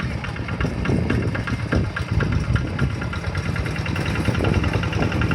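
Kubota RD85 single-cylinder diesel engine of a Quick G1000 two-wheel hand tractor running steadily, with a rapid, even knocking beat.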